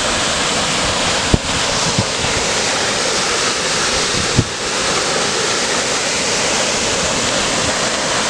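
Steady loud rush of water from the Kalambo River pouring over the top of Kalambo Falls, with two brief knocks, one about a second and a half in and one past four seconds.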